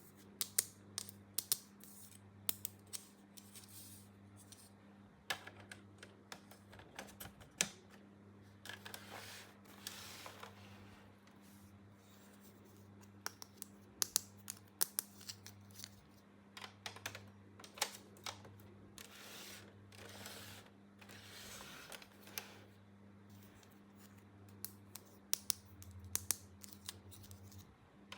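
Small plastic toy parts being handled, with irregular light clicks and taps as pieces are set down and fitted. There are a few short swishing rustles, all over a steady low hum.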